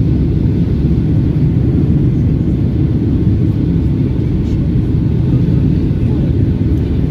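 Boeing 757 jet airliner's engines: a loud, steady low rumble.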